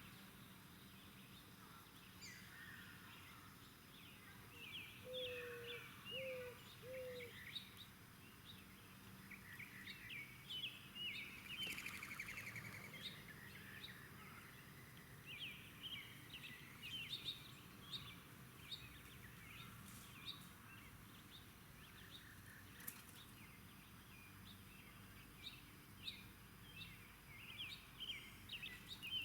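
Small birds chirping in quick, short high notes, over and over, faint against a quiet outdoor background. Three short, lower notes come one after another about five to seven seconds in.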